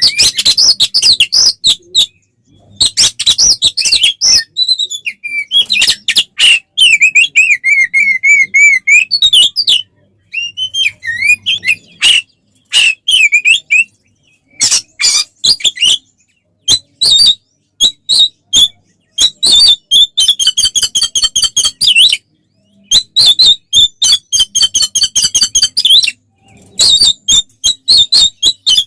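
Oriental magpie-robin (kacer) singing loudly in fast bursts of harsh chattering notes, trills and whistled phrases, with short breaks between bursts. This is the aggressive, rapid-fire 'fighting' song used to provoke other male kacer.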